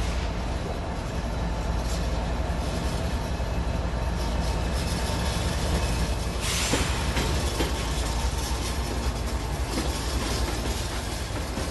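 Auto-rack freight train rolling past, its wheels making a steady low rumble on the rails, with a brief harsh hiss of wheel noise about six and a half seconds in.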